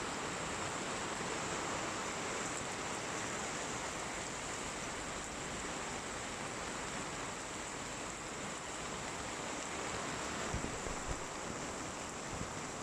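Storm wind and rough sea from a Mediterranean hurricane, a steady rushing noise. A few gusts thump on the microphone about ten seconds in.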